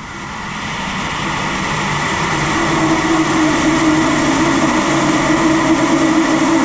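Kerosene and liquid-oxygen rocket engine firing: a loud, steady roar that grows louder over the first couple of seconds, with a steady hum inside it through most of the firing.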